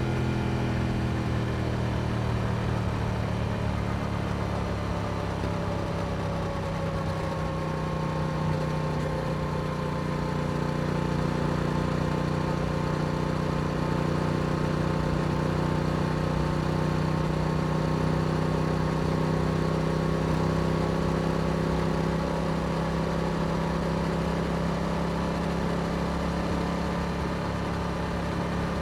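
Yamaha YZF-R7's parallel-twin engine running through an Akrapovic exhaust while the bike is ridden. The revs ease down over the first several seconds, then hold at a steady cruise.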